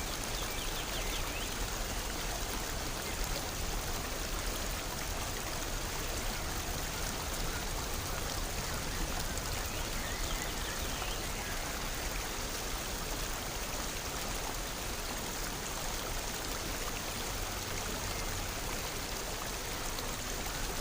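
Steady rush of running water, a stream or small falls, with no break or change.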